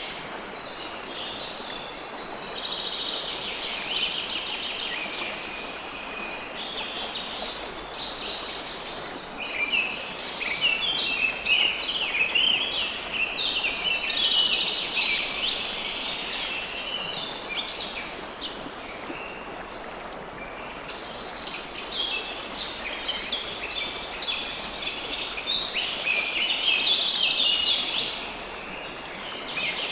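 River water flowing in a steady rush, with many small birds chirping and twittering over it in dense, high-pitched spells that thin out and return.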